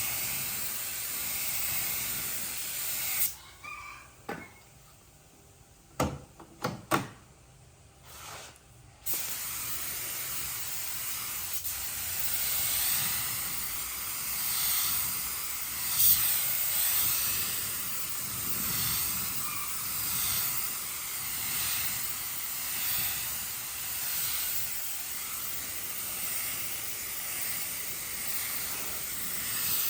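Compressed air hissing from an air gun, cutting off about three seconds in; a few knocks follow, then the hiss starts again and swells and eases every second or two, as in repeated passes.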